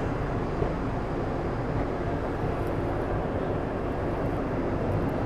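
Steady running noise of a passenger train in motion: an even low rumble with no breaks or distinct knocks.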